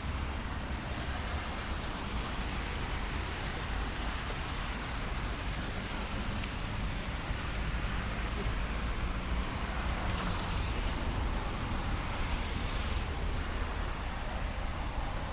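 Light rain and traffic on a wet city street: a steady low rumble of vehicles under an even hiss, with tyre hiss on the wet road swelling about ten to thirteen seconds in.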